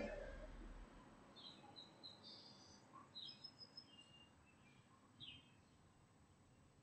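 Faint, scattered chirps and short calls of small songbirds over quiet outdoor ambience, after a louder sound dies away in the first second.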